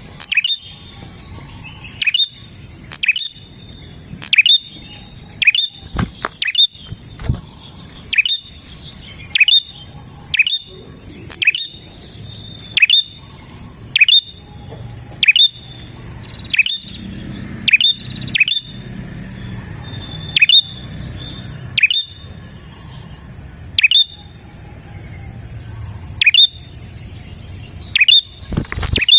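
Prenjak (prinia) calling: short, sharp notes that drop steeply in pitch, repeated about once a second, with a couple of sharp clicks about six seconds in.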